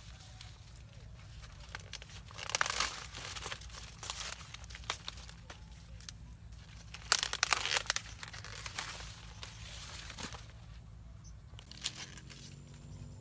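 Dry rustling and crinkling, louder in two spells about two and a half and seven seconds in, with scattered small clicks over a steady low hum.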